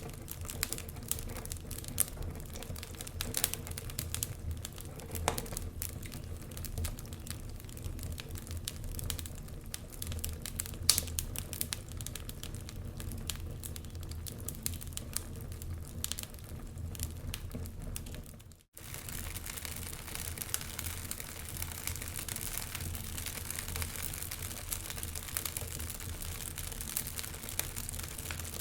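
Wood fire crackling in a fireplace, a stream of small sharp pops and snaps over a low steady rumble and soft hiss. The sound cuts out for a moment about two-thirds of the way through, then resumes with a little more hiss.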